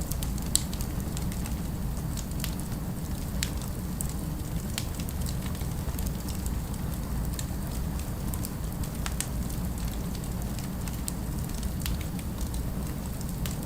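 Fireplace crackling: scattered sharp pops and snaps, one louder pop about half a second in, over a steady low rumble.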